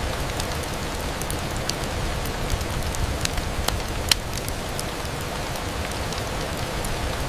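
Steady rain on a window glass: a constant even hiss with scattered sharp ticks, the sharpest about four seconds in.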